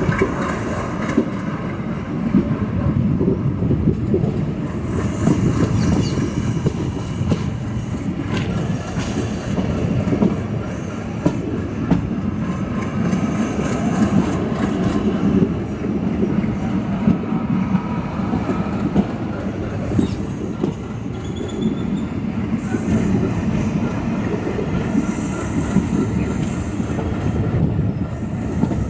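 Train running along the track: a steady rumble with irregular clicks from the wheels passing over the rail joints.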